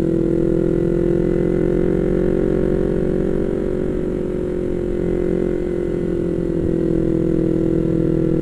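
Yamaha MT-25's 250 cc parallel-twin engine running steadily while cruising, with the level sagging slightly midway and picking back up.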